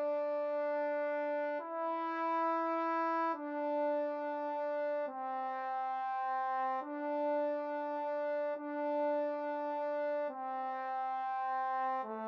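A single trombone line playing slow, evenly held notes, about seven in a row, each lasting a little under two seconds and stepping up and down in pitch.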